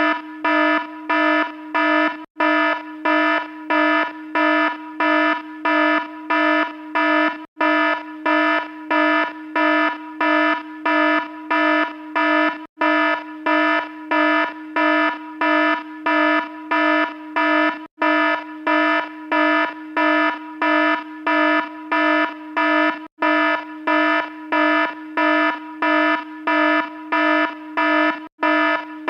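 Electronic alarm beeping rapidly with a harsh, buzzy tone, about two beeps a second, with a brief dropout roughly every five seconds.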